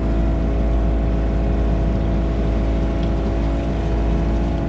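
Tractor engine running steadily at a constant speed, with a heavy low rumble and an even hum.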